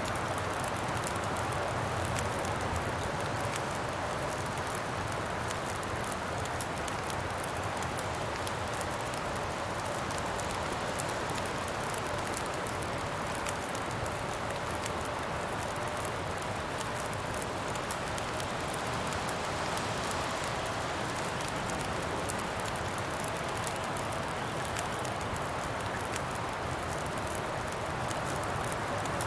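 Campfire crackling steadily with many small pops over a constant wind rush.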